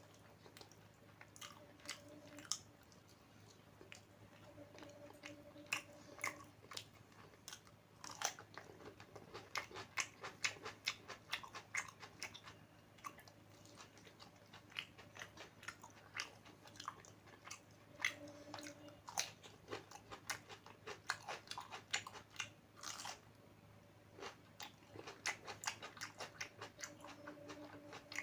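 Close-up chewing and biting of a person eating a meal of rice and curries, with many quick irregular mouth clicks and smacks and some crunching.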